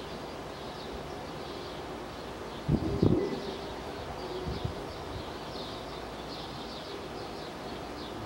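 Small birds chirping over a steady outdoor hum. About three seconds in there is a louder, low-pitched bird call close by, and a shorter, fainter one about a second and a half later.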